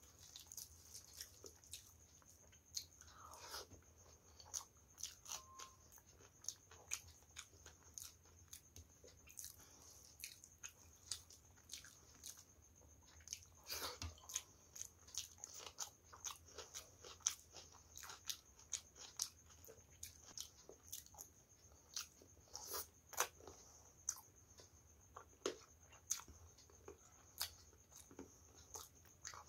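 Close-up chewing and mouth sounds of a person eating pulao rice with curry by hand: many short clicks and smacks, a few each second, with no speech.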